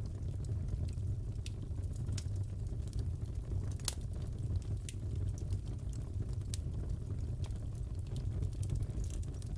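Crackling fireplace: a steady low rumble of burning with scattered sharp pops and snaps, one louder pop about four seconds in.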